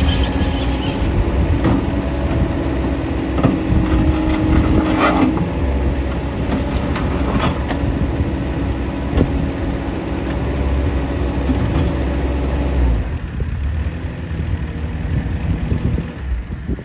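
CAT 257B skid steer's diesel engine running steadily with a hydraulic whine and occasional metallic clanks. The deep engine sound drops away about thirteen seconds in.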